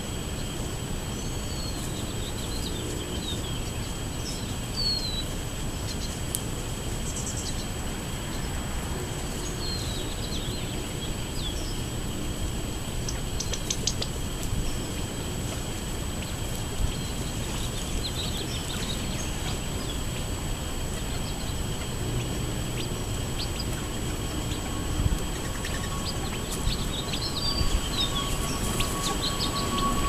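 Small birds chirping now and then with short, high calls over a steady background hiss; the chirps come more often near the end.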